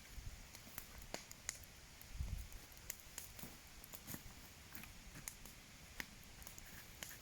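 Faint, irregular crackling and ticking of a campfire, with a low dull thump about two seconds in.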